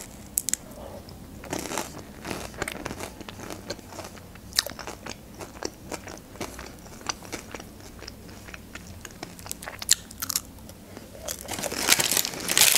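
Close-up crunchy bites and chewing of a crisp fried pastry with a red fruit filling, heard as scattered short crackles. A louder rustle builds near the end.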